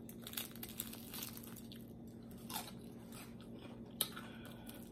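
Faint crunching and chewing of crispy fried chicken, with scattered small crackles as fingers pick at the breading; the sharpest click comes about four seconds in.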